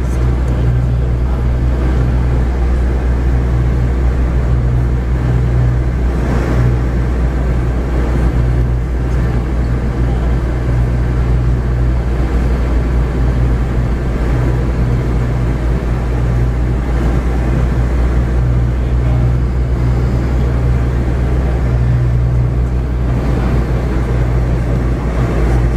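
Steady cabin noise inside a Boeing 717-200 in flight on the descent for landing: a constant low hum from its rear-mounted Rolls-Royce BR715 turbofans under the even rush of air along the fuselage.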